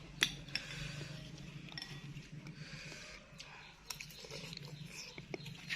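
Close-miked eating sounds of a person chewing bakso meatballs, with scattered sharp clicks over a steady low hum.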